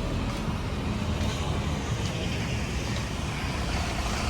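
Steady ambient noise, mostly a low rumble, with no distinct single event.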